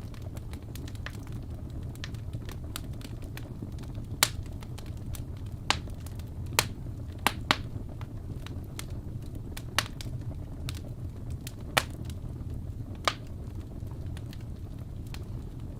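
Wood fire burning in a fireplace: a steady low rumble of flames with irregular crackling from the burning logs. About eight louder sharp pops stand out at uneven intervals, the loudest about four seconds in.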